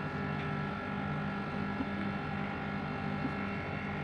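Split air conditioner's outdoor unit running with a steady, unchanging hum from its compressor and fan during a pump-down, while the refrigerant is being drawn in and the suction service valve is closed.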